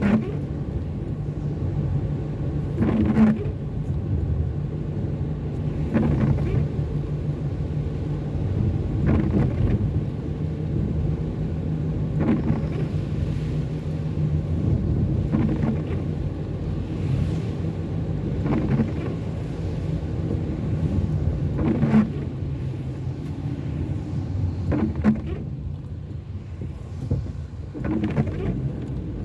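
Car cabin on a rainy drive: steady engine and tyre rumble, with the windscreen wiper blade sweeping across the glass about once every three seconds.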